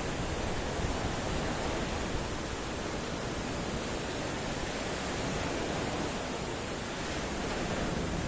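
Ocean waves breaking and washing on the shore: a steady rushing surf with gentle swells in level.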